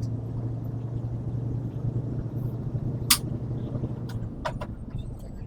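Vehicle engine running steadily with a low hum, which eases off a little past four seconds in. A sharp click comes about three seconds in, and two lighter clicks follow a second or so later.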